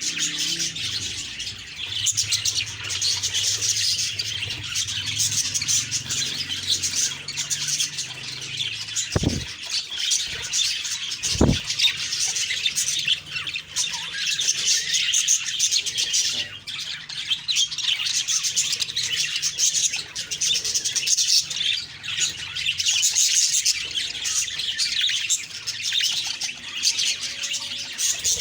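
A group of budgerigars chattering and chirping continuously in a dense, high warble, with two brief low thumps about nine and eleven seconds in.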